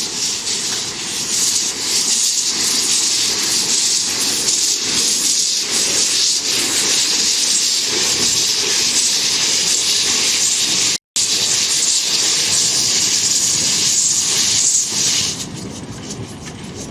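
Steam locomotive letting off steam: a loud, steady hiss with a momentary break a little past the middle, stopping near the end.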